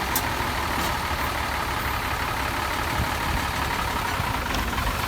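Heavy diesel earthmoving machinery running steadily, a constant engine rumble with no sudden events.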